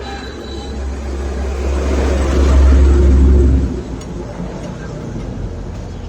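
Small 4 hp single-cylinder diesel engine running with a deep low rumble. It builds louder over the first few seconds, then drops back suddenly about three and a half seconds in.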